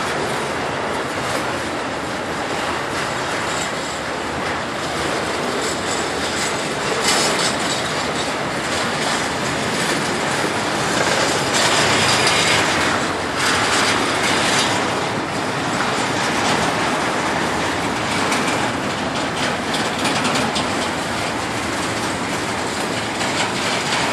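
Double-stack intermodal well cars rolling past over a grade crossing, their wheels clattering steadily on the rails. About halfway through, a louder, hissier stretch of rail noise rises over the clatter.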